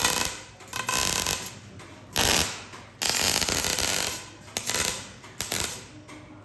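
MIG welder laying a series of short tack welds, each a burst of crackling hiss about half a second to a second long, about six in all.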